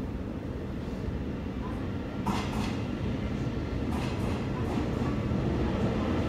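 Electric commuter train heard from inside the carriage as it starts to pull out of a station: a low running rumble that slowly grows louder, with a sharp clunk about two seconds in and another near four seconds.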